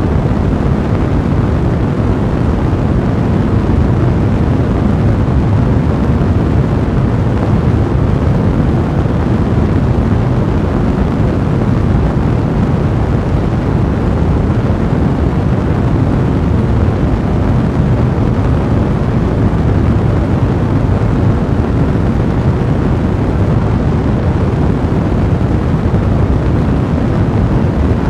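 A blazing fire burning steadily, heard as a dense, even low rumble with no breaks.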